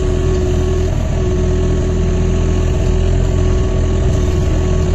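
Excavator's diesel engine running steadily with a heavy low rumble and a constant hum over it while the machine works.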